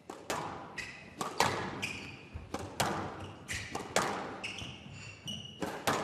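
Squash rally in progress: the ball cracks off rackets and the court walls about twice a second, some hits followed by a brief high ring or squeak.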